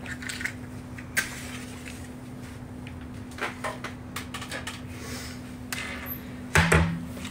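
Scattered light clicks and knocks, as of objects being handled, over a steady low hum, with a louder knock near the end.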